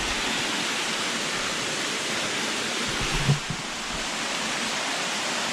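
Waterfall rushing in a steady, even wash of falling water. A brief low bump about three seconds in.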